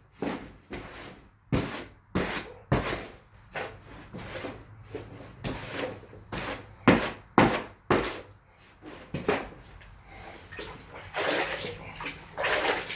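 Damp sand-and-cement shower pan mud being mixed by hand in a plastic mortar tub: a scraping slap with each stroke, about two a second and unevenly spaced, with two longer scrapes near the end.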